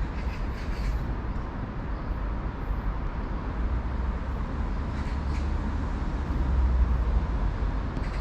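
A train running by on the track: a steady low rumble that swells a little near the end.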